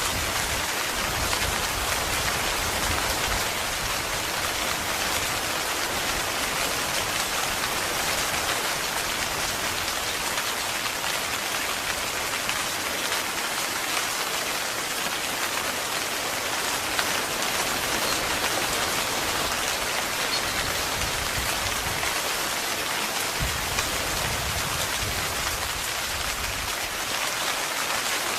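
Heavy rain drumming steadily on a tent's fabric, a dense even patter with no let-up. A low rumble sounds underneath twice, about a second in and again around the 23-second mark.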